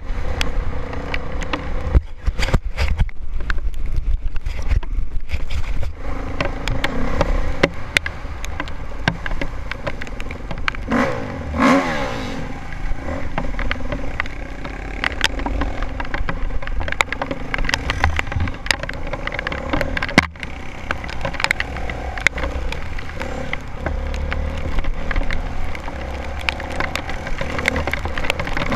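Honda CRF450R dirt bike's single-cylinder four-stroke engine running on a rough trail, with frequent sharp clattering knocks over the engine note. There is a brief rise and fall in revs about halfway through.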